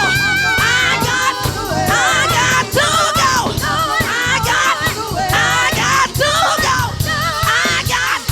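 Live church praise music: a singer holding wavering, melismatic lines over a band with steady drum hits and a bass line.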